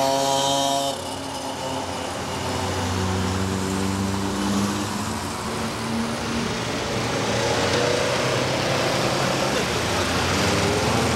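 Rally car engines passing through an intersection. One car's engine note drops away about a second in. Engine sound then builds and rises again near the end as the next car arrives.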